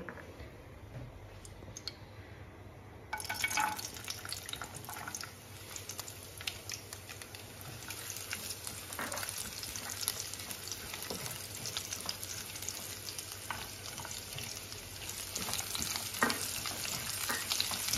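Chopped walnuts and cashews sizzling in hot ghee in a nonstick pan, stirred with a silicone spatula, with scattered light taps and scrapes. The sizzle starts suddenly about three seconds in; before that there is only a low hum.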